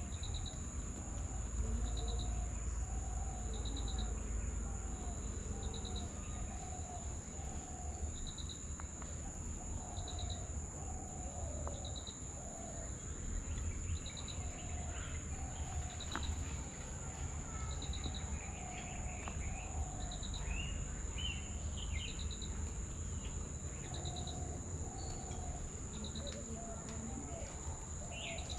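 Outdoor nature ambience: a steady high insect drone with a short high chirp repeating about every two seconds. Birds call over it, with low repeated notes throughout and scattered higher chirps in the second half, above a steady low rumble.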